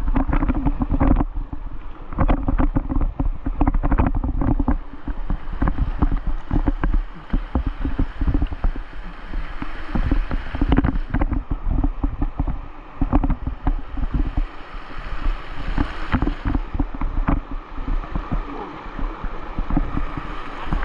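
Whitewater rapids rushing, with wind buffeting the microphone and frequent sharp knocks and bumps.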